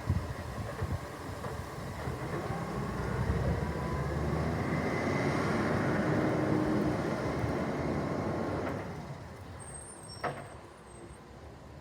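Recycling truck running close by, louder through the middle and dying away after about nine seconds, with one short sharp snap near the end.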